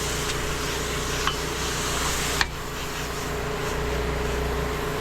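A pressure-washing rig's small engine-driven pump running steadily under a steady hiss of spray, with a sharp click about two and a half seconds in.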